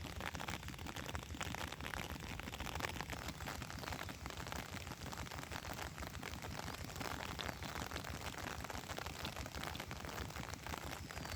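Steady rain falling, a dense scatter of drops hitting surfaces.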